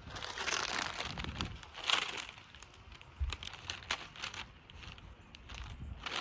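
Crinkling and rustling of something being handled, in irregular bursts with short crackles.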